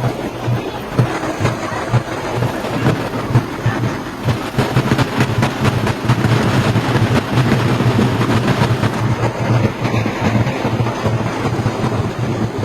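Indian Railways superfast passenger train running: a steady rumble with continual rail clatter.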